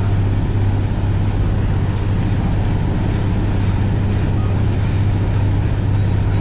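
Boat engine running steadily while under way: a loud, even low hum that does not change.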